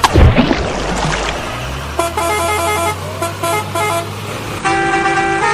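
A sudden loud thump with a falling pitch, then a vehicle horn honking in a run of short toots and one longer blast near the end.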